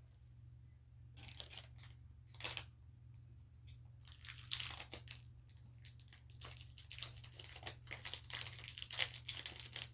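Packaging being handled and crinkled as an item is unwrapped: a few short rustles at first, turning into dense, continuous crinkling about four seconds in.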